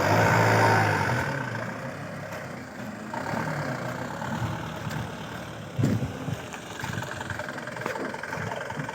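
Fully loaded truck's engine running hard on a rough road, loudest in the first second or so and then easing to a lower steady run. There is a short knock about six seconds in.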